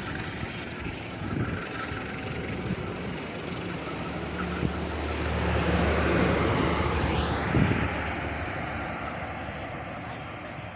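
A train running past on the rails: a continuous rumble of wheels and cars over a steady low drone that swells in the middle, with brief high wheel squeals in the first couple of seconds.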